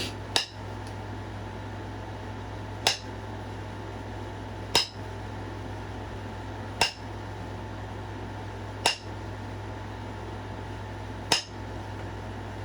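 Flintknapping: six sharp, clinking clicks about two seconds apart as flakes are struck or pressed off the edge of a stone point. The work is aimed at thinning the point and getting past step fractures.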